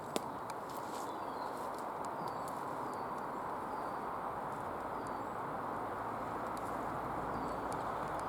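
A small bird calling over and over, a short falling high note about once a second, over a steady rushing background noise. There is a single click just after the start.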